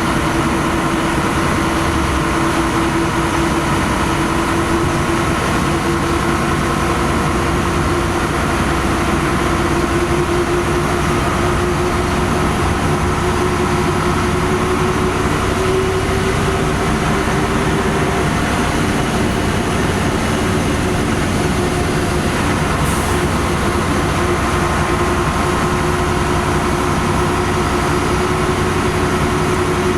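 LiAZ-5256 city bus heard from inside the cabin while under way: its diesel engine and drivetrain run steadily over road noise, with a steady whine that rises slightly over the first half and then holds.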